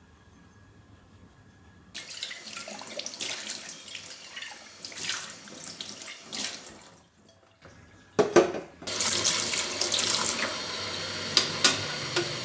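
Kitchen tap running into a sink, water splashing as something is rinsed under it. It starts about two seconds in, breaks off briefly, and after a sharp knock runs on more steadily with a few light clinks.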